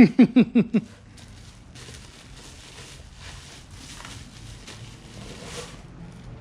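A short burst of laughter, about five quick 'ha' pulses, in the first second. After that, a faint steady low hum with light rustling and handling noises.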